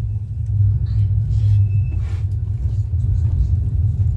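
Heritage tram running, heard on board as a steady low rumble with a few light rattles.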